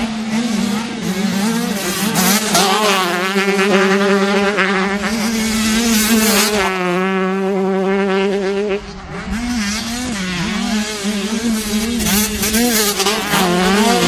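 Racing dirt bike engines running hard, several at once, their pitch rising and falling as the riders rev and shift, with a brief drop in loudness about nine seconds in.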